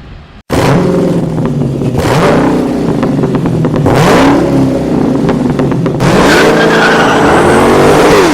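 Racing car engines revving hard, their pitch sweeping up and down several times, with tire squeal. The sound cuts in abruptly about half a second in and stops dead at the end.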